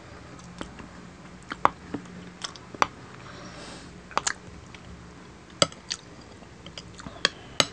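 Close-miked chewing of soft, moist chocolate cake: quiet wet mouth sounds broken by a dozen or so sharp clicks and smacks at uneven intervals.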